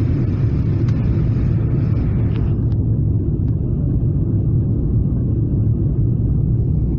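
Steady low rumble of cabin noise inside a Boeing 777-300ER airliner, from its engines and airflow. A higher hiss over the rumble drops away about three seconds in.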